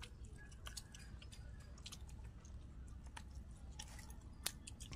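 Faint chewing and mouth sounds of people eating, with scattered small clicks throughout and one sharper click near the end.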